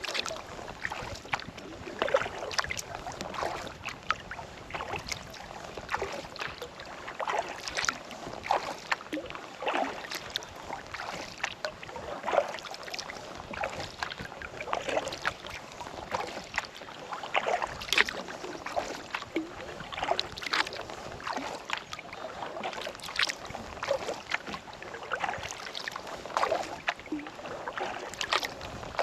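Kayak paddle strokes dipping into lake water, with repeated splashes and drips every second or two as the blades alternate.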